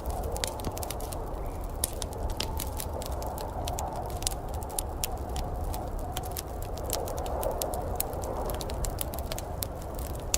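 Wood fire crackling, with many irregular sharp pops and snaps over a steady low rushing background.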